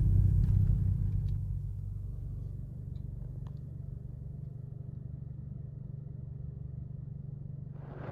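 Low, steady engine rumble, dropping slightly in level about two seconds in.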